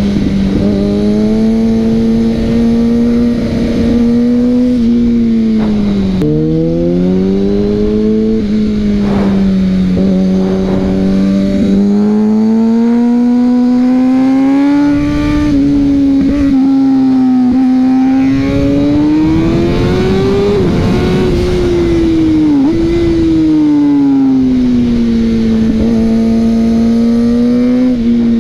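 Kawasaki 600 supersport's inline-four engine heard onboard, its pitch rising and falling with the throttle through the bends, with a few sudden drops in pitch. Wind rush runs underneath.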